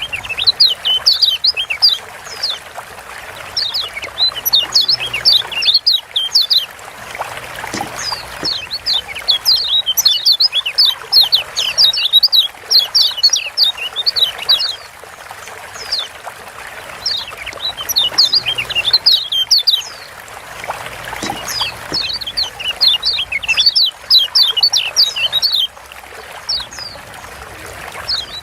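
Kecial kuning (Lombok yellow white-eye) giving rapid 'ciak' chip calls. The calls come as fast runs of short, sharply falling high notes, in bouts of a few seconds broken by brief pauses.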